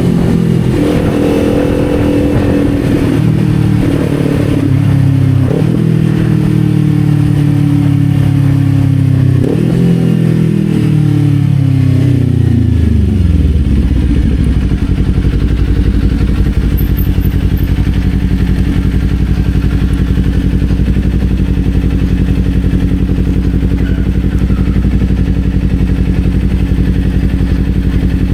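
Kawasaki Z400's parallel-twin engine slowing down through the gears: the revs jump up at two downshifts and then fall away. About 13 seconds in it settles to a steady idle.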